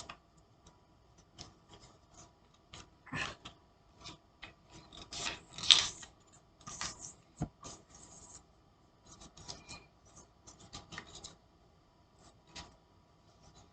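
A sheet of paper being folded and creased by hand: irregular rustles and rubbing strokes, the loudest about six seconds in.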